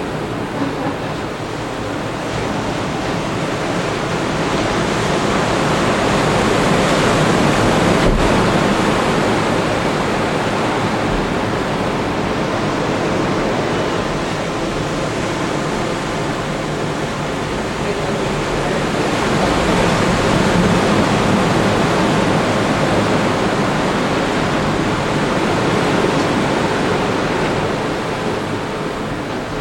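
Ocean surf breaking on the beach: a steady wash of waves that swells and eases slowly every several seconds.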